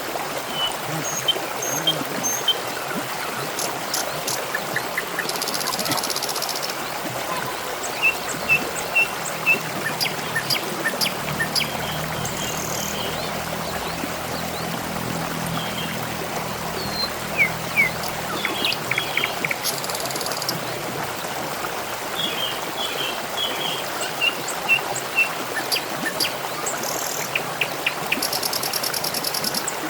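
Water trickling and splashing steadily, like a small stream or fountain, with short bird chirps now and then and a few brief, buzzy high-pitched bursts.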